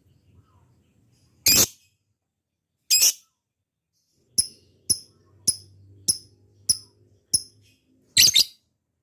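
Lovebird calling: two harsh screeches, then a run of six short, sharp chirps about two a second, then a harsh double screech near the end.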